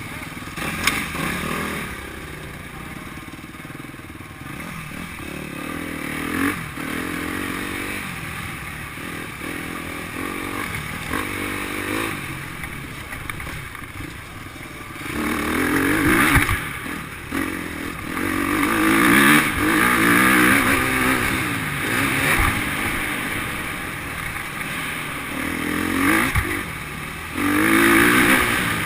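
Motocross bike engines revving up and down as they ride the track. The revving grows louder about halfway through and again near the end.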